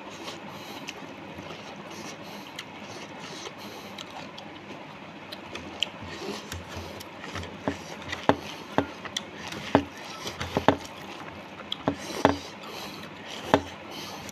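Close-up chewing and lip smacking while eating rice by hand, with sharp wet mouth clicks coming about once a second in the second half over a steady hiss.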